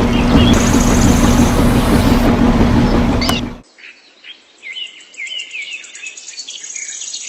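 A small motor runs loudly with a steady hum over a rough, noisy clatter, then cuts off abruptly about three and a half seconds in. After it, birds chirp in short repeated calls.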